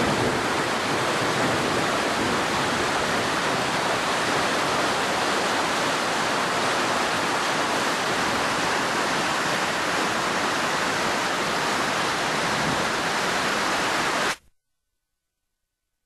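Steady rushing of swollen floodwater, a loud even hiss-like roar, which cuts off suddenly near the end.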